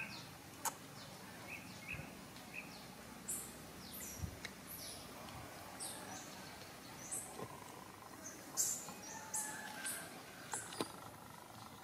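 Birds chirping: a run of short, high chirps that slide downward in pitch, coming every half second to a second, with a few faint clicks among them.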